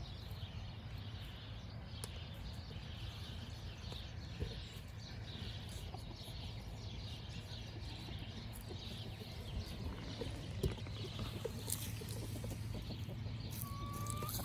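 Birds chirping and calling faintly and often, with one clearer rising call near the end, over a steady low hum and a few light clicks.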